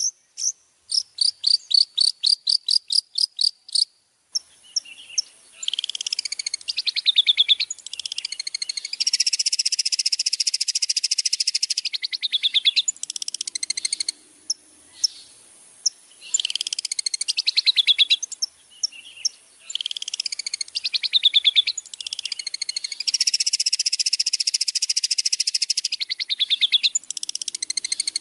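Songbird song from a bird-training recording: a fast series of sharp, high chirps for about four seconds, then a continuous rapid, varied song of trills and chatter with brief pauses. A faint, steady high hiss lies underneath.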